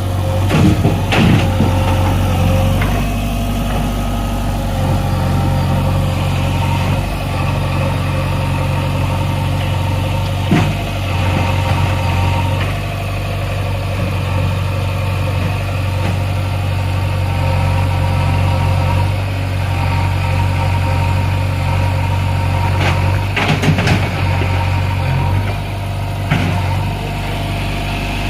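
Diesel engine of a JCB 3DX backhoe loader running steadily at a low, even speed. A few sharp knocks stand out over it, about a second in, about ten seconds in, and twice more near the end.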